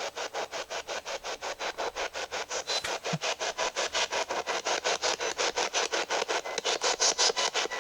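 Spirit box radio sweeping through stations: a rapid, even chopping of static bursts, about six a second.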